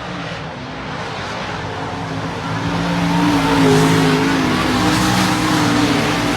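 Dirt-track race car engines running at speed on the track, growing louder over the first few seconds as the cars come closer, then holding steady.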